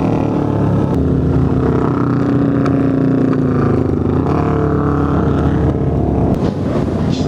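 Motorcycle engine running at a steady speed while riding, its pitch sagging a little midway and then climbing again.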